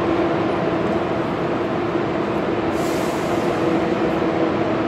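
Steady electric hum of trains standing at the platforms, several even tones over a background rumble, with a short hiss of air about three seconds in.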